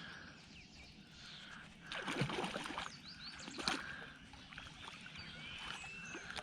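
Small hooked trout splashing and thrashing at the water's surface beside the boat as it is reeled in, with water sloshing. The loudest splashes come about two seconds in and again a little over a second later. A few short chirps sound over it.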